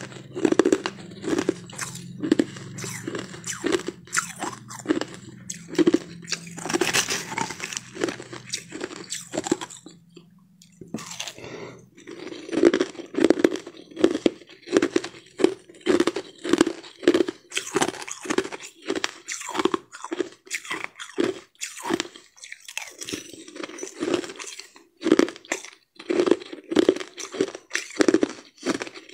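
Someone chewing crushed ice close to the microphone: a steady run of crisp crunches, about two to three bites a second, with a short lull around ten seconds in.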